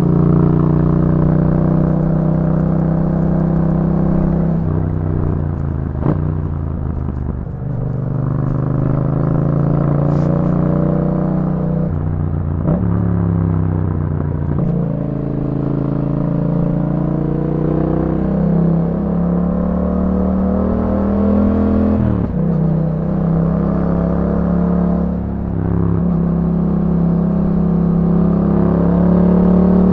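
Yamaha MT-07's 689 cc parallel-twin engine through an aftermarket Akrapovič exhaust, running under way on the road. The engine note rises and drops several times as the rider accelerates and shifts gears.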